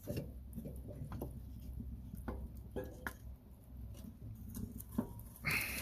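Wood fire crackling and popping in a homemade rocket stove, scattered sharp clicks over a steady low rumble, with a louder noisy rush about five and a half seconds in.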